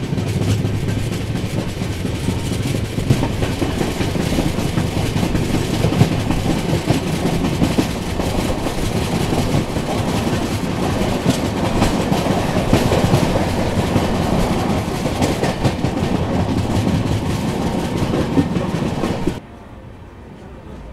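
Passenger express train running on the track, a steady rumble with wheel clatter over the rails. It drops off sharply near the end to a much quieter background.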